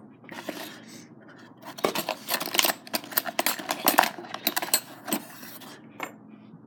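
Small metal hand tools clinking and rattling as they are rummaged out of a box, a quick run of clicks and knocks with some rustling.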